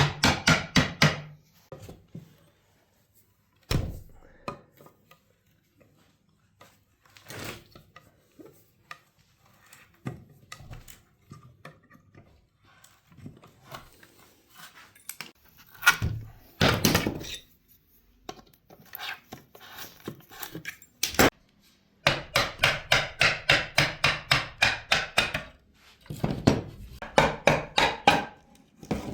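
Hand tool working the wood of a wooden suitcase: runs of quick, even back-and-forth strokes, about seven a second, with scattered single knocks and scrapes between the runs.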